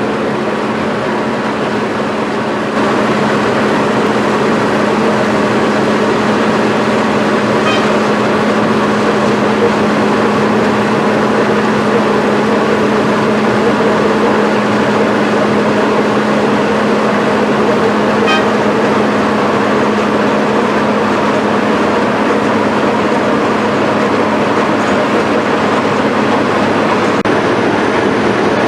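Asphalt milling machine running and cutting, a loud, steady mechanical din with a constant low hum, growing slightly louder about three seconds in.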